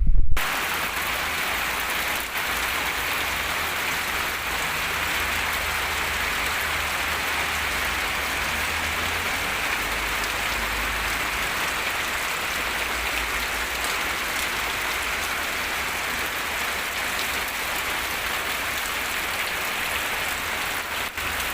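Steady rain falling on oil palm seedlings, an even hiss that sets in abruptly about half a second in.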